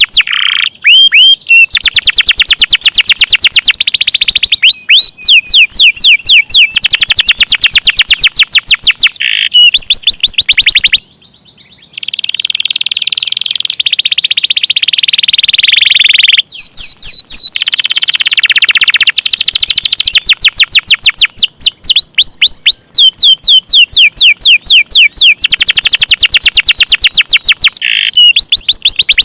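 Domestic canary singing long rolling trills: fast runs of repeated high notes, one run after another, with a short break about 11 seconds in.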